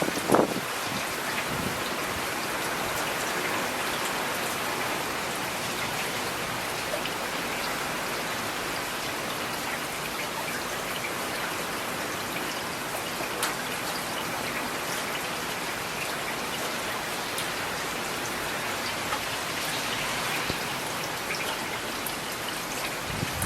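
Steady rain falling, an even hiss dotted with the ticks of individual drops landing close by. A single louder thump about a third of a second in.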